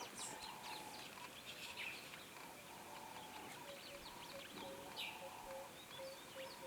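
Bush ambience of many birds chirping and calling, over a steady high thin tone. From about halfway, a low note repeats about three times a second.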